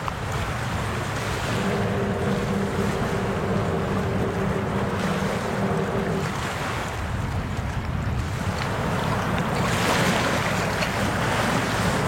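Wind and water noise, with a steady low hum for a few seconds in the first half and a swell of rushing hiss near the end.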